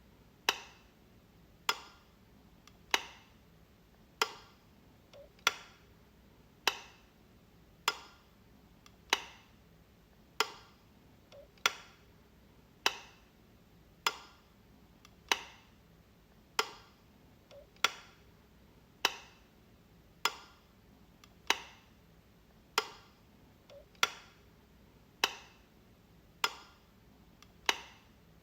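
Light switch clicking at an even pace, one sharp click about every 1.2 seconds, each with a faint softer tick just before it.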